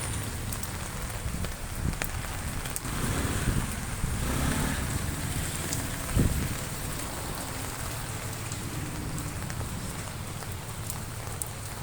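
Heavy rain falling, a steady hiss with scattered drop ticks. A swell of noise builds and fades about a third of the way in, and a brief dull thump comes just past the middle.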